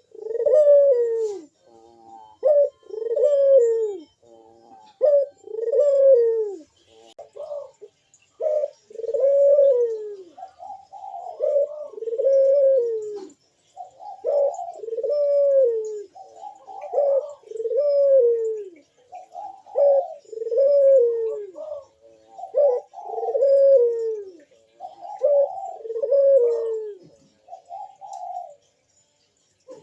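Barbary dove (burung puter) cooing over and over, each coo a short arched call roughly every second and a half in an unbroken series: the full, frequent calling of a male in breeding condition.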